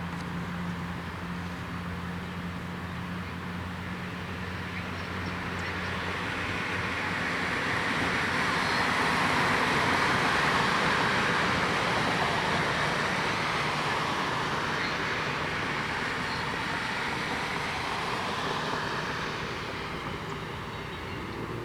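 Rushing vehicle noise that swells to its loudest about halfway through and fades again, with a low steady hum in the first few seconds.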